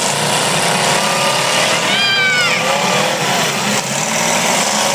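Small V8 and V6 demolition derby car engines running together in a loud, steady din. About two seconds in, a brief high note rises and falls over it.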